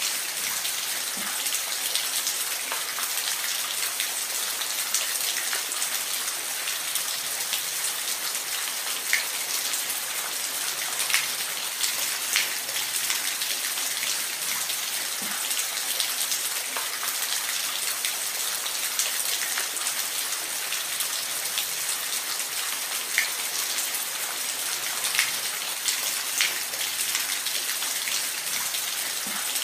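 Waterfall: falling water making a steady, even hiss, with scattered sharp splashes of droplets.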